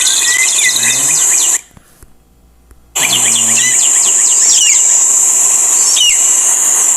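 Layered stock forest sound effects: many overlapping bird chirps and short whistled calls over a steady high insect-like hiss, built up so that it sounds like many birds. The sound cuts out for about a second and a half near the start and then comes back.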